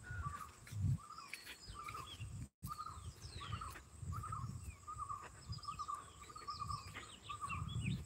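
Birds calling around a flooded paddy field: one short call repeated over and over at the same pitch, with quicker, higher chirps scattered over it. Irregular low rumbles and thuds run underneath, and the sound cuts out for a moment about two and a half seconds in.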